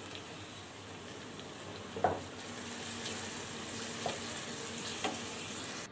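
Onions with garlic-ginger paste sizzling in hot oil in a karahi as they are sautéed, a steady frying hiss. The spatula knocks against the pan three times: about two seconds in, about four seconds in and near the end.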